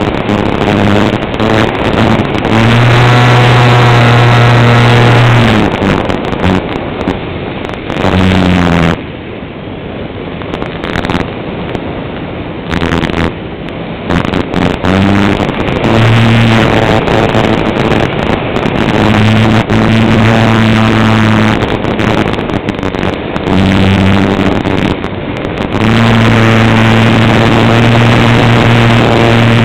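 Light aircraft engine and propeller running, heard loud and close: a steady low drone that fades for a few seconds about a third of the way in and then comes back at full strength.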